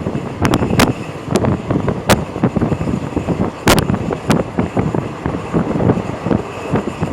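A vehicle in motion, a steady low rumble broken by sharp clacks and knocks at irregular intervals, with wind buffeting the microphone.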